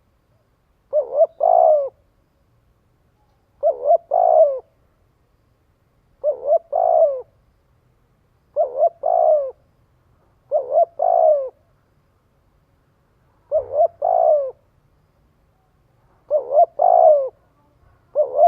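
Spotted dove cooing: seven short phrases about every two to two and a half seconds, each two quick notes followed by a longer, falling coo. It is the fast repeated call used as a decoy call to stir up caged wild-caught doves.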